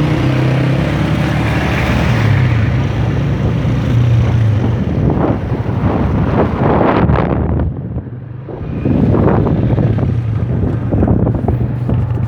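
Motorcycle engine running while riding, with heavy wind buffeting the microphone in gusts.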